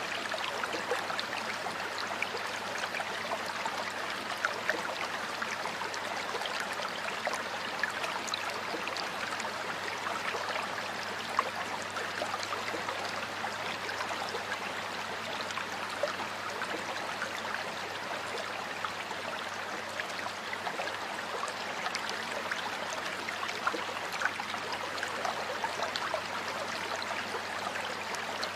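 Stream water flowing steadily over rocks, a continuous rush with many small splashes and gurgles.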